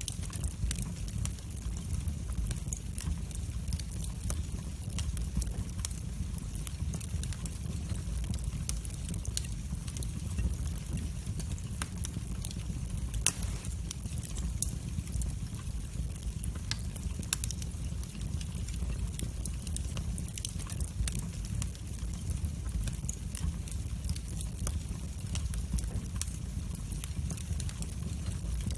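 Wood fire burning in a fireplace: a steady low rumble of flames with irregular crackles and pops, one sharper pop about halfway through.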